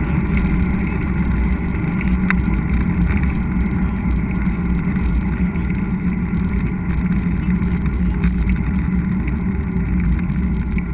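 Steady low rumble of wind buffeting an action camera and tyres rolling over a trail while mountain biking, with a couple of faint clicks from the bike.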